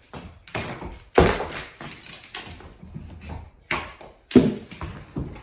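Chimney bricks breaking loose and falling down the brick chimney, a string of crashing impacts with the loudest about a second in and again at about four and a half seconds: the chimney collapsing.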